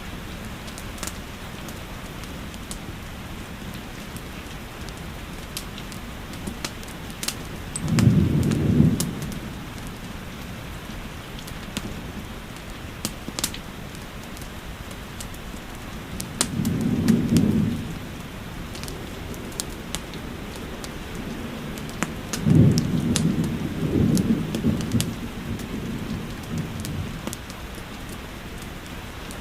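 Steady rain falling, with sharp pops from a crackling wood fire, and three low rumbles of thunder; the last rumble is the longest.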